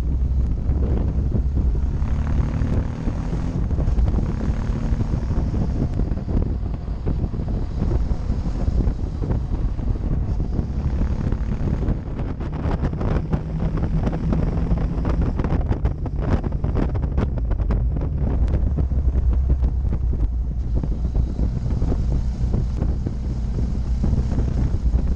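Motorcycle engine running under way, its pitch rising and falling with the throttle, with wind buffeting the microphone of a rear-mounted camera.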